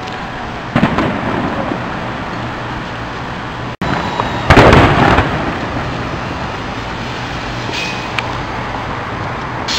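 Fireworks shells bursting: a sharp bang about a second in, then a louder, longer burst about halfway through, over steady background noise.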